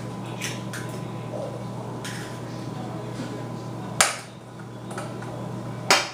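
Eggs being cracked open: a few light taps, then two sharp knocks about two seconds apart, the second near the end, over a steady low hum.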